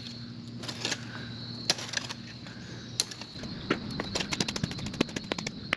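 Hand digging in rocky dirt: sharp knocks of a tool striking soil and rock, a few at first, then a fast run of clattering knocks in the second half, over a steady low hum.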